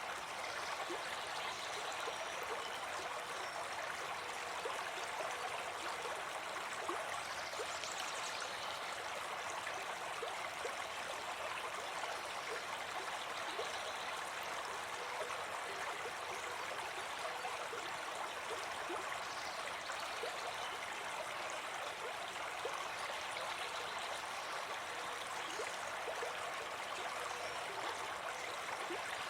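Brook babbling: a steady, even rush of running water over stones.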